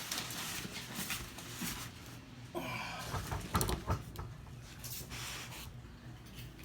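Rustling and scraping of a cardboard shipping box and its packing being opened and handled, with a few sharp knocks about three and a half seconds in.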